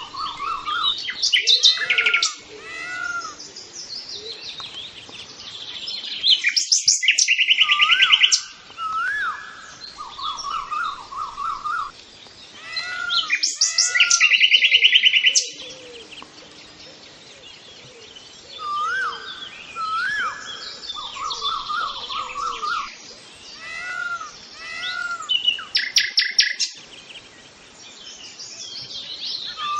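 Birdsong: repeated short arched whistles and rattles, broken now and then by louder, fast high trills.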